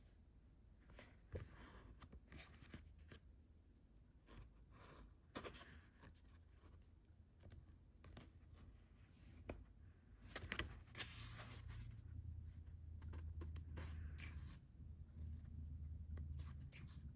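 Faint handling of manga paperbacks: paper rustling, with scattered soft taps and scrapes as books are moved and pages turned.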